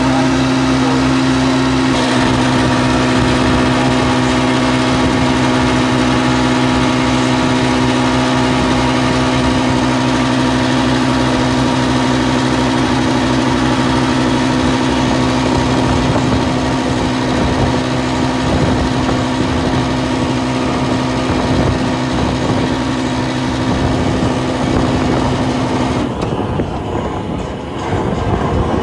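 Massey Ferguson tractor's diesel engine running steadily at working speed, with a steady whine over it that stops near the end.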